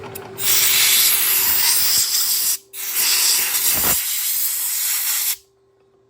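Compressed-air blow gun blowing chips off a freshly milled cut: two long blasts of hissing air with a brief pause between them, cutting off suddenly near the end.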